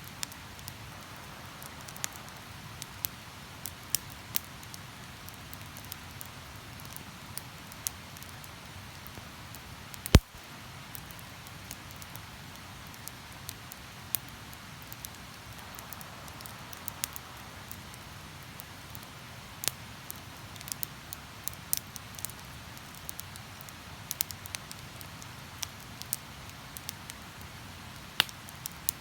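Wood campfire crackling with scattered sharp pops and one loud crack about ten seconds in.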